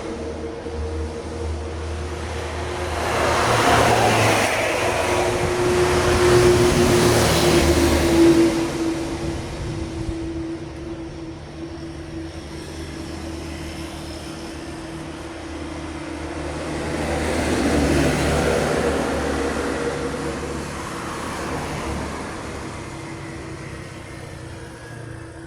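Road traffic: heavy vehicles pass, one from about three to eight seconds in and another around eighteen seconds, over the steady drone of an engine running close by.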